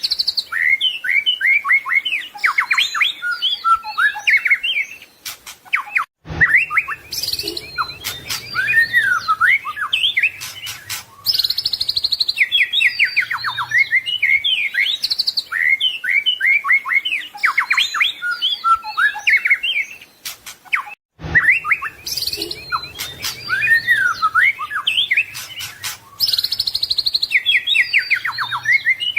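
White-rumped shama singing a fast, varied song of whistles, trills and chattering notes, full of mimicked phrases. The song breaks off briefly twice, about six seconds in and again about twenty-one seconds in, where the recording is cut.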